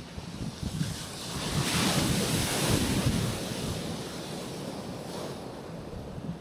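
Gentle Caribbean sea waves breaking and washing onto a rocky shoreline, one wave swelling to its loudest in the middle and dying away, with a smaller wash near the end. Wind buffets the microphone throughout.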